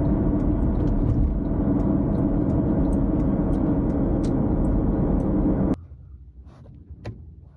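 Car driving, a steady low road rumble with a faint hum over it. It cuts off suddenly about six seconds in, leaving a quiet background with a few faint clicks.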